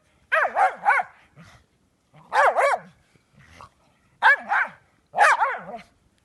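Dog barking in short, high-pitched yaps, about nine barks in four quick bursts of two or three.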